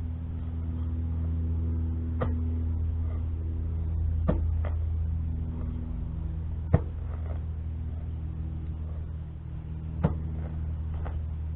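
A shovel digging dirt out, striking with sharp knocks every couple of seconds, over a steady low hum.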